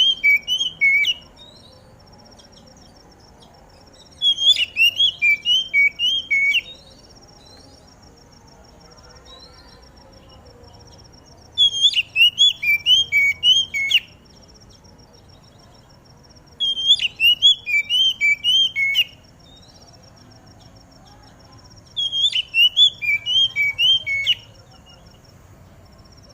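Oriental magpie-robin (kacer) singing in five phrases, each about two seconds long and about five seconds apart. Each phrase is a quick run of about eight sharp, whistled notes.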